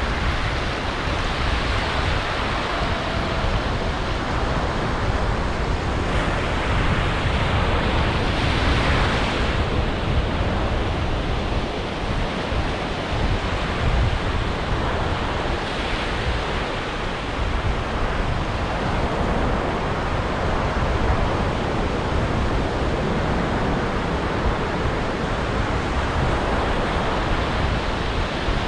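Ocean surf: waves breaking and washing up a beach in a continuous rush, swelling louder about a quarter of the way in and again just past halfway.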